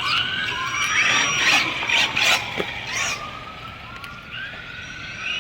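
Electric RC cars' motors whining, the pitch rising and falling as they speed up and slow down, with a few short rushes of noise about two seconds in.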